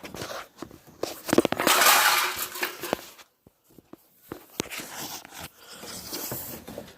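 Hands working wires and metal parts into place: scattered clicks and knocks, with a loud scraping, rustling rush about a second and a half in.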